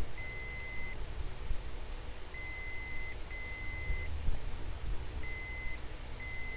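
Digital multimeter in diode mode sounding its continuity beep, a steady high tone, about five times in short separate beeps as the probe touches the VDD_MAIN line: the beep signals a short on that line.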